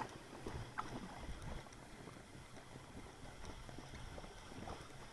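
Quiet open-boat ambience: scattered faint knocks and handling clicks over a low wind rumble.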